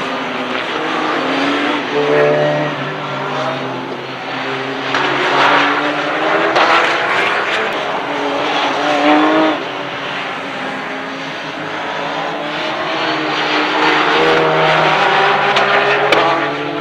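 Porsche 911 GT3 Cup race cars' flat-six engines running hard on track, several cars passing in turn. The pitch rises and falls as they accelerate and shift gears, loudest in the middle of the stretch.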